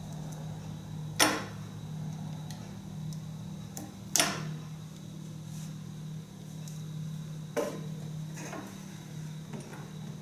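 Three sharp knocks, about three seconds apart, with a few fainter clicks, over a steady low hum.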